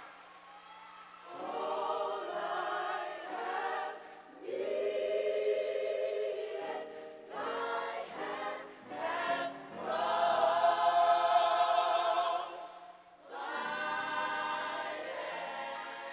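Gospel choir singing in phrases separated by short pauses.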